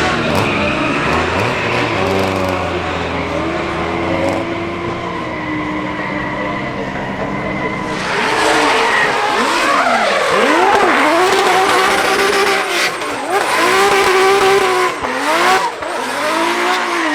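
A competition car's engine running at a steady note, then about halfway through loud tyre noise sets in as the engine revs rise and fall again and again, wheelspin and tyre squeal from a car being driven sideways or spun up.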